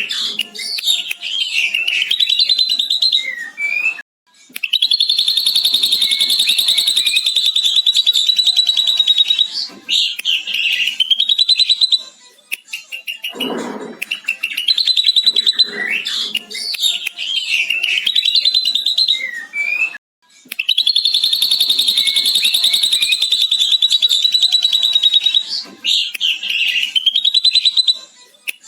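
Ashy drongo singing a lovebird-style long chattering trill ('ngekek panjang'), several seconds unbroken, between bursts of sharp whistles and chatter; the same song sequence plays through twice.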